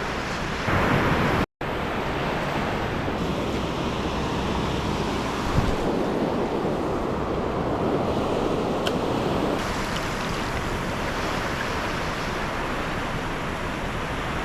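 Waves washing onto a beach, a steady rush of surf, with wind buffeting the microphone. The sound drops out briefly about a second and a half in.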